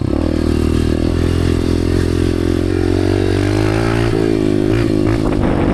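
Dirt bike engine running at a steady, fairly constant speed under the rider, its pitch dipping and recovering briefly about four seconds in.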